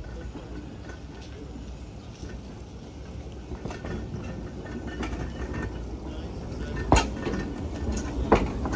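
A train rumbling along the rails, slowly growing louder. Two sharp knocks come near the end, about a second apart.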